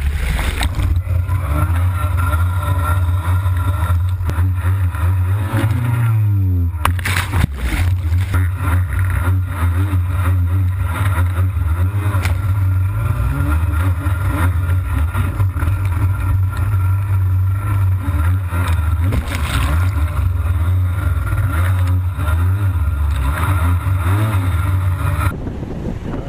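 Jet ski engine running under way, its revs rising and falling as the throttle is worked, over a rushing hiss of wind and spray. There is a sharp drop and climb in revs about seven seconds in, and near the end the engine falls away, leaving a quieter hiss.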